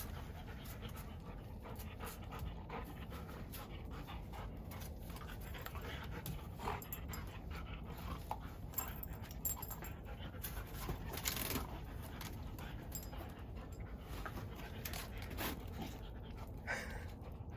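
A dog panting steadily, with a few short scuffs and clicks scattered through it.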